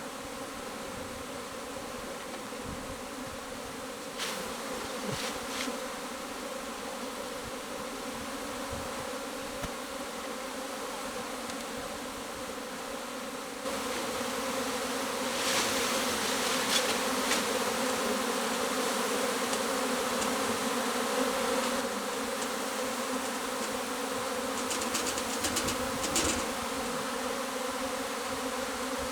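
Honeybee swarm buzzing: the dense, steady hum of thousands of bees, stepping up louder about halfway through, with a few faint light clicks.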